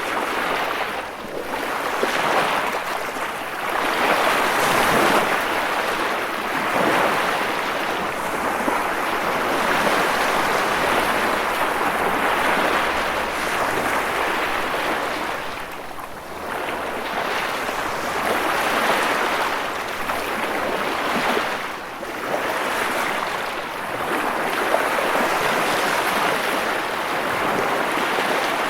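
Ocean surf: waves breaking and washing in as a continuous rush that swells and ebbs, with brief lulls between the surges.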